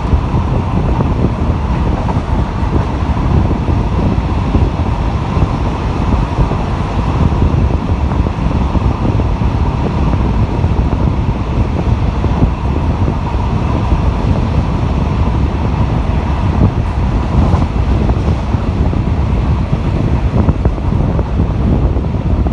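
Wind buffeting the microphone at the open window of a moving RHN diesel railcar, over the train's steady running noise.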